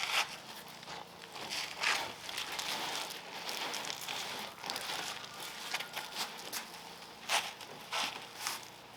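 A soapy wash mitt wiping over car paintwork: wet swishing with crackling suds, broken by a few sharper wet strokes.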